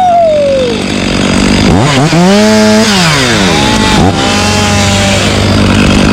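Two-stroke chainsaw being revved: it winds down from full throttle, revs up and holds high twice with brief dips, then drops back to a steady idle near the end.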